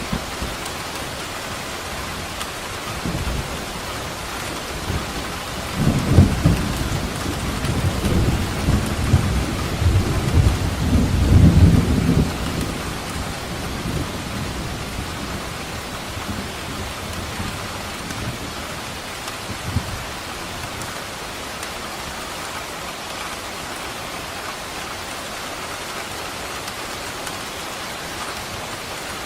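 Steady heavy rain with a long roll of thunder that builds about six seconds in, peaks around twelve seconds, then fades back to the rain.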